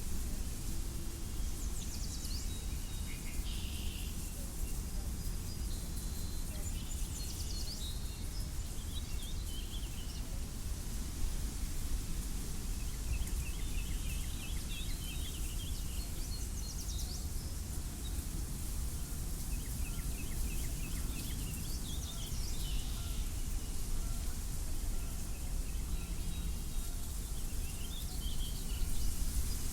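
Steady low wind noise, with small birds chirping and trilling on and off over it in short phrases.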